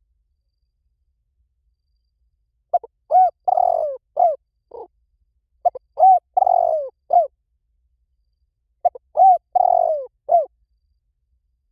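Spotted dove cooing: three phrases of several short coos about three seconds apart, each with a longer, falling note in the middle.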